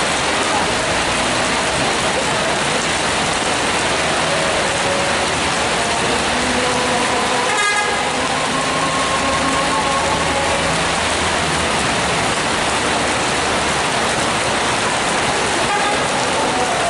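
Heavy rain hissing steadily, with a bus's engine and a few horn toots in the middle.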